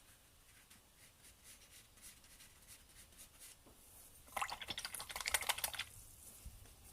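Paintbrush dabbing acrylic paint onto a canvas: faint scattered taps, then a quick run of rapid, crisp taps about four and a half seconds in lasting a second and a half.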